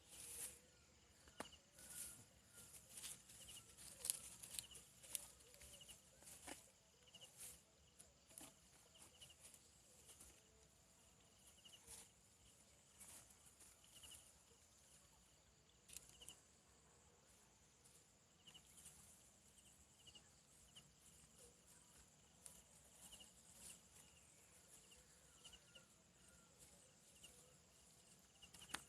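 Faint outdoor insect chorus: a steady thin high drone with a short high chirp repeating every second or less, and scattered light clicks and taps.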